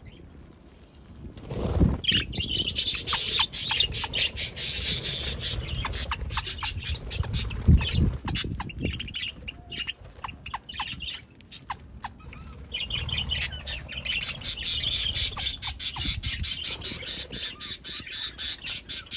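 Budgerigars chattering and squawking in quick, high, scratchy chirps. The chatter thins out briefly about halfway through and then picks up again. A low thump comes just before the chatter starts.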